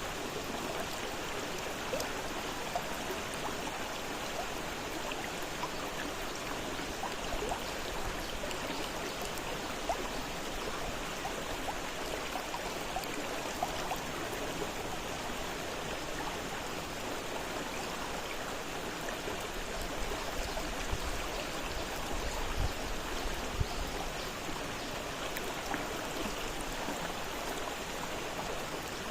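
A fast-flowing river rushing steadily, with small splashes and trickles ticking through the rush.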